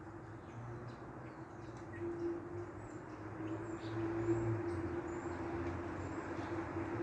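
Small birds chirping faintly, short high calls scattered throughout, over a steady low mechanical hum that grows louder from about two seconds in.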